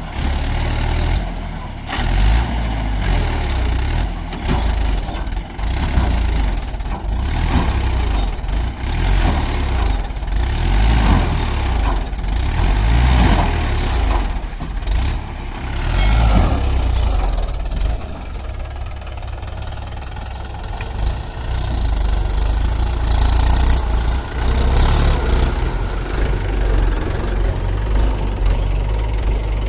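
Diesel engines of a farm tractor and a backhoe loader running under load as they work in heavy mud, the engine note rising and falling. About two-thirds of the way through, the sound turns duller.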